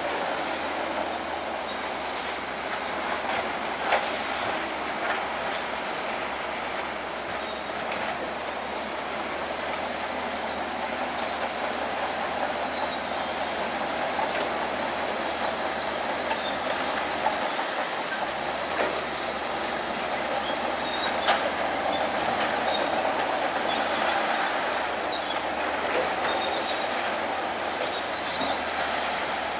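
Crawler bulldozer working: steady diesel engine noise under a continual metallic clanking of the steel tracks, with short high squeals from the track links and scattered sharp clanks.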